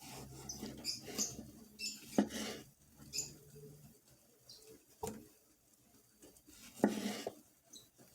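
Kitchen work with dishes and utensils: short high squeaks from something rubbing, and three louder knocks spread through the clip, over a low hum that stops about halfway.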